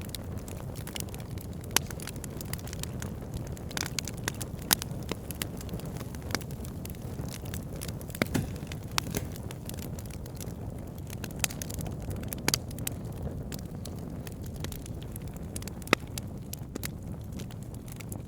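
Wood fire burning with a steady low rumble and logs crackling throughout, with a few sharper pops standing out.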